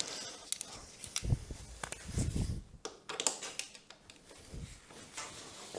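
Scattered light clicks and taps of hand tools on metal as a bolt is worked loose on a motorcycle's frame.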